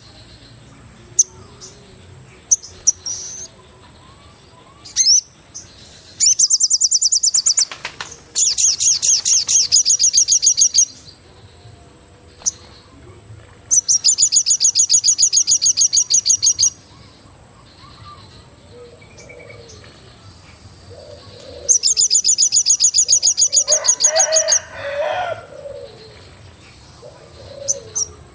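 Forest birds calling: four loud bursts of rapid, high chirping trills, each one to three seconds long, over a faint steady high-pitched tone. Lower, cooing calls join near the end.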